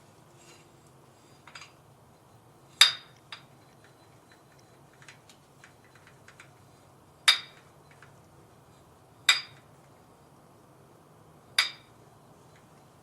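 Four sharp metallic clinks with a brief ring, spaced a few seconds apart, with a few lighter ticks between them: small metal distributor parts and hand tools being set down and handled.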